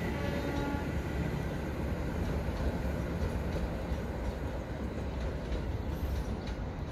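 KAIS 4 inspection train running away along the track, its rumble and wheel noise slowly fading.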